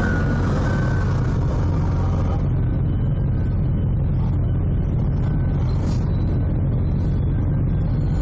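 Steady, low engine rumble of forklifts working on the port quay. A forklift's reversing beeper sounds a few short times in the first couple of seconds.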